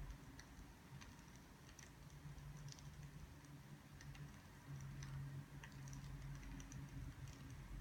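Faint crackling of burning firewood: small sharp pops at irregular times over a low steady hum.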